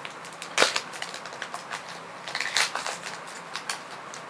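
Foil booster pack wrapper crinkling and being torn open by hand: a string of sharp crackles, loudest about half a second in and again around two and a half seconds.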